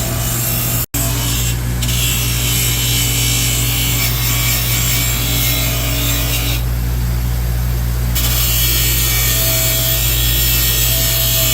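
Handheld power sanding tool with an abrasive disc scrubbing old gasket material off a flat metal surface of a 454 big-block engine, running steadily over a constant low hum. It cuts out for an instant about a second in.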